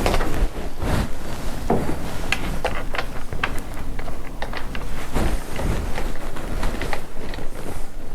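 Irregular clinks and clicks of nuts and bolts being rummaged through in a bag, with rustling, over a steady low rumble.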